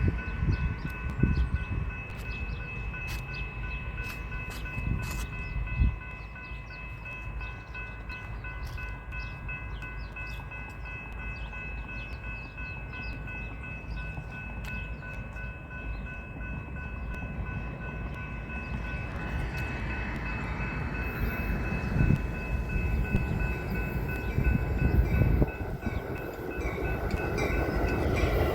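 A train approaching, its low rumble growing louder toward the end, with several steady high ringing tones held throughout.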